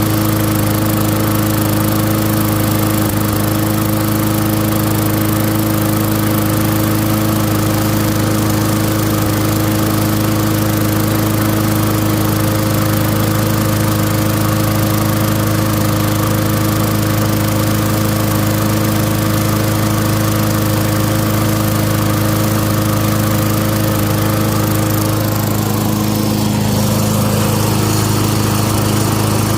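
Craftsman lawn mower's Tecumseh engine running steadily at one speed, starting to smooth out after long disuse, with a slight change in its note about 25 seconds in.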